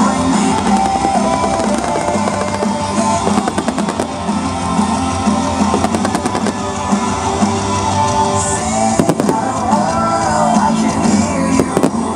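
A pop-rock song with drums and guitar plays loudly over a sound system, with firework bursts cracking and popping at several points through it.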